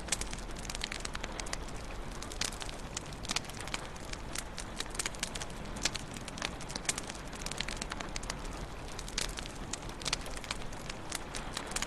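Wood fire crackling in a fireplace: many irregular sharp pops and snaps over a steady low hiss.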